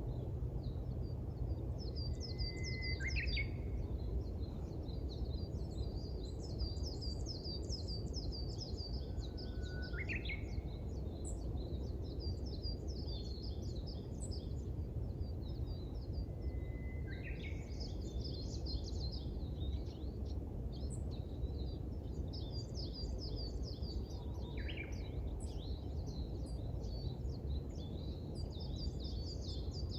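Birdsong at sunrise: several small birds twittering continuously in quick high chirps, with one louder call that sweeps in pitch and repeats about every seven seconds, over a steady low rumble of background noise.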